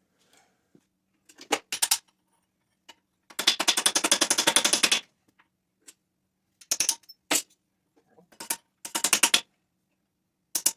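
Pneumatic hammering tool rattling in short, rapid bursts against metal while cleaning up a pitted steel hinge part. The longest burst lasts about a second and a half.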